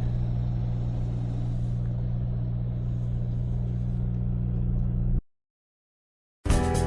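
Freightliner semi truck's diesel engine running at a steady speed, a low, even drone heard inside the cab. It cuts off suddenly about five seconds in, and after a second of silence music begins near the end.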